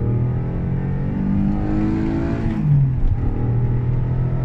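Alfa Romeo GT's 3.2-litre Busso V6 accelerating hard, its pitch rising for about two and a half seconds. Then it drops sharply at an upshift and runs on at a lower, steady pitch.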